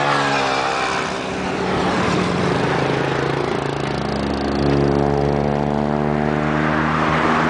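Kawasaki ZXR250 inline-four engine running through a Vance & Hines slip-on exhaust. Its note drops in the first second, holds fairly steady, then climbs a little about halfway through.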